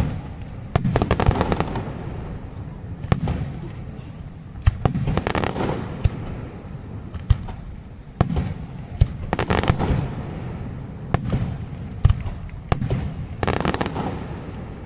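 Aerial fireworks display: sharp shell bursts every second or two, each followed by about a second of crackling.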